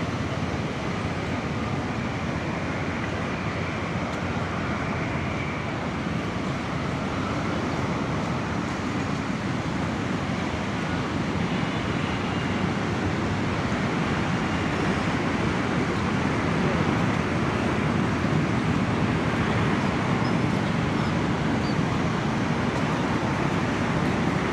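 Steady beachfront background noise: wind, surf and road traffic blending into one even wash, with no distinct events.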